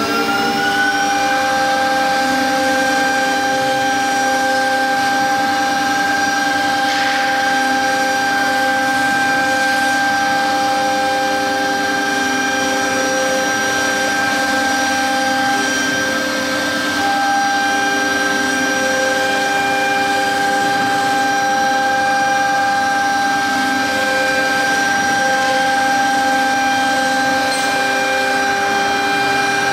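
3.5 kW air-cooled spindle of a 1325 CNC router whining as it spins up, its pitch rising and levelling off about a second in, then running at a steady high whine over a rough, noisy hiss.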